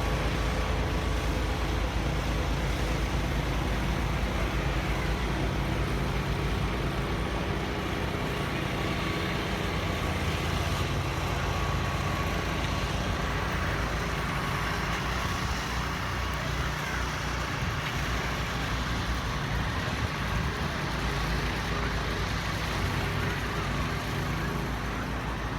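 Steady city traffic noise: a continuous hum of cars and trucks on the roads.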